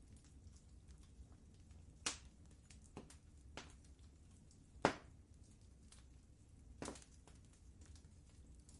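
Wood fire in a fireplace crackling softly over a low steady rumble, with a handful of sharp, irregular pops; the loudest pop comes about five seconds in.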